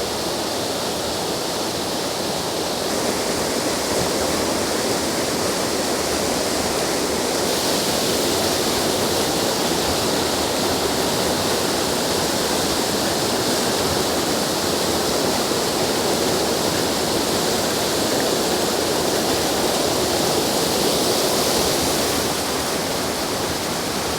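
Waterfall on a small river in spate, a heavy flow of water pouring over rocks in a steady, dense rush.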